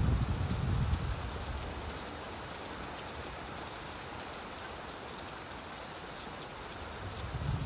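Steady rain hiss, with a low rumble of thunder dying away in the first second and another starting to build near the end.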